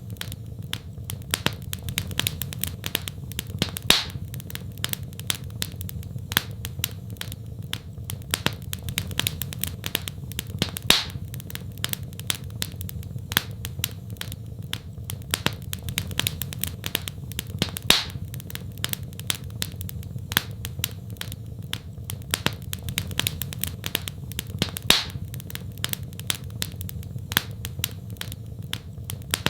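Wood fire crackling in a fireplace: dense small crackles over a steady low rumble, with a louder pop about every seven seconds.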